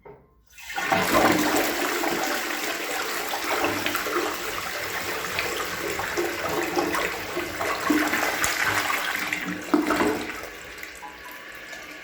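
Logasa Zoom close-coupled toilet flushing: a brief click, then a loud rush of water about a second in that runs for some nine seconds, dropping to a softer steady flow near the end.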